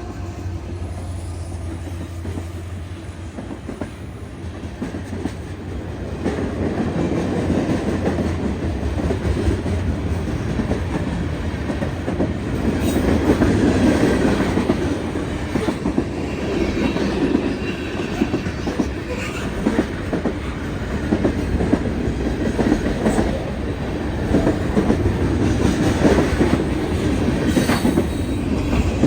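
A train rolling past on the rails, its wheels clattering over the track joints over a steady rumble that grows louder after the first few seconds.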